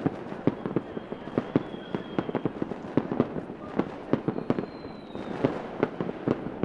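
Fireworks going off: a rapid, irregular string of sharp bangs and pops, several a second, over continuous crackling, with a few faint high whistles.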